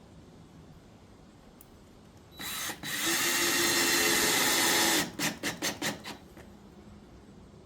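Power drill driving a screw into the subfloor patch: a short start, then a steady run of about two and a half seconds, ending in five quick trigger bursts as the screw is seated.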